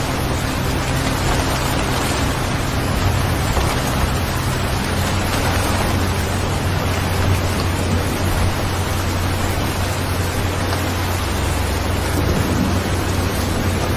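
Steady rain, an even hiss, with a steady low rumble underneath.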